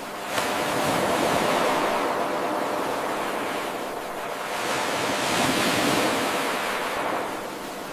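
Ocean surf washing in and out, the noise swelling twice and ebbing between. A slight click about half a second in marks where the 8-second recording loops back to its start.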